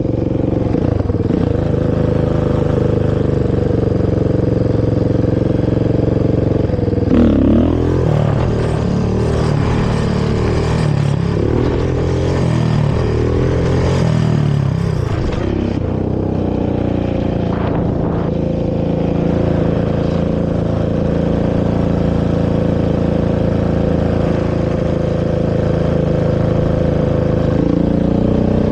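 Honda TRX450R quad's single-cylinder four-stroke engine running through its stock exhaust. It holds a steady speed, is revved up and down repeatedly for several seconds from about seven seconds in, then settles back to steady running.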